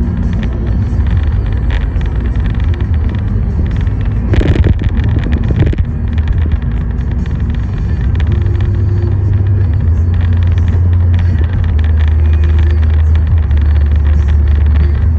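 Car driving, a steady low road and engine rumble that grows heavier about halfway through, with a brief loud rush of noise about four seconds in.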